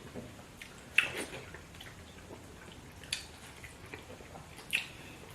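Wet eating sounds of fufu with spinach soup: three short wet smacks, the loudest about a second in, with faint chewing clicks between.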